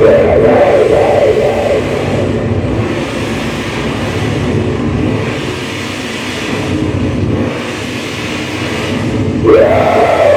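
Live distorted noise music: a loud, dense drone with a wavering, warbling pitch that thins into rumbling noise, then a sharp upward-sliding tone near the end brings the warble back.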